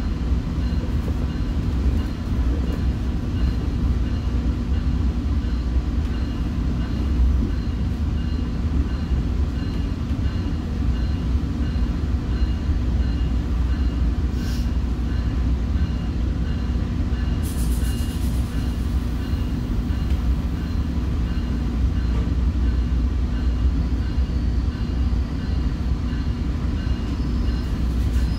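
Commuter train running steadily between stations, heard from on board: a continuous low rumble of the wheels and running gear.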